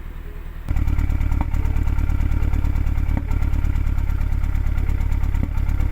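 MK2 Audi TT's four-cylinder TFSI petrol engine running steadily while still misfiring on cylinder 1, a misfire that a new coil pack and spark plug have not cured and that the owner suspects is a faulty injector. The sound gets noticeably louder about a second in.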